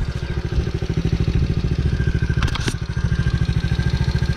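Small 110cc dirt bike engine idling with a fast, even pulse. A sharp clack comes twice about two and a half seconds in.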